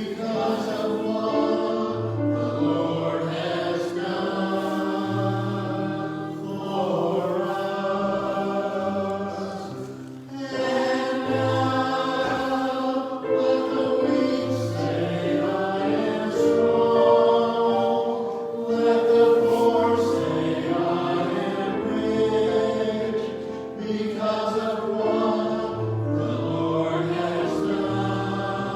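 Choir singing a slow sacred piece, such as a hymn or anthem, with accompaniment and long held notes.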